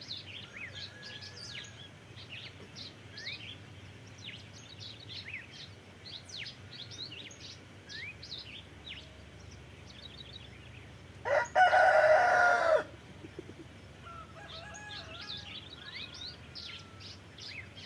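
Dawn birdsong of many small birds chirping, with a rooster crowing once, loudly, about eleven seconds in.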